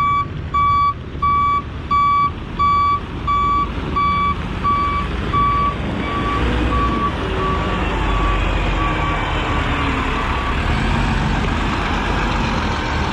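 Dump truck's reversing alarm beeping steadily, about one and a half beeps a second, over its running diesel engine as it backs in to dump crushed rock. The beeps fade after about six seconds and stop near ten, leaving a continuous rumbling rush.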